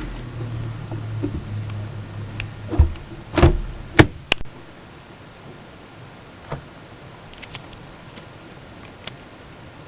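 Fireworks going off: a quick cluster of four sharp bangs between about three and four and a half seconds in, the loudest near four seconds, followed by a couple of fainter single cracks. A low rumble fades out before the bangs begin.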